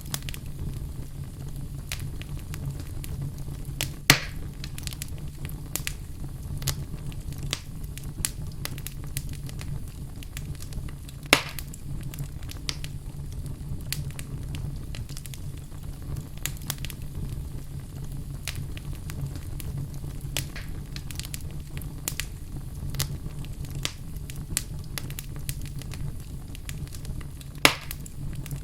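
Wood fire burning in a fireplace: steady crackling with many small snaps over a low rumble, and three louder pops, about four seconds in, about eleven seconds in and near the end.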